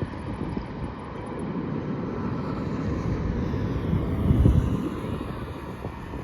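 Airbus A320 airliner landing: steady low jet rumble that swells to its loudest about four and a half seconds in, then eases.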